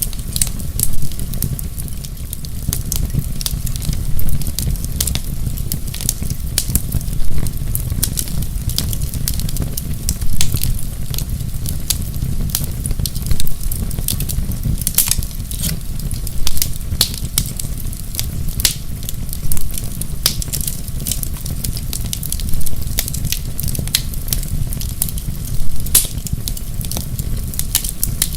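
Wood fire burning in a fireplace: a steady low rumble with many sharp crackles and pops. About every three seconds it swells briefly louder.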